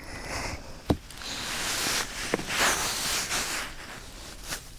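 Soft rustling noise right at the ear of a binaural microphone, swelling twice, with a couple of light clicks.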